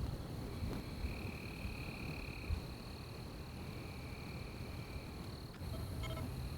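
Night forest chorus of insects or frogs: a steady high-pitched trill runs throughout, while a lower trill comes in repeated phrases about a second and a half long. Under it is a low rumble, and a short call sounds near the end.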